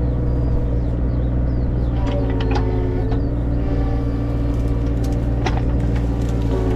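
Tractor diesel engine running steadily, with several sharp metallic clanks from the work about two to three seconds in and again about five and a half seconds in.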